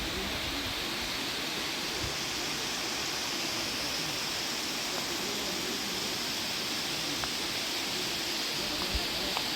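Flowing water rushing steadily, a constant even hiss with no change in level.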